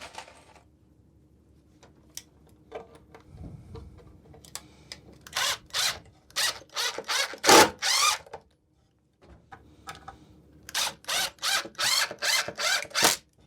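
Power drill driving screws into wood in short trigger pulses: two runs of several quick bursts, with a dull knock shortly before the first run.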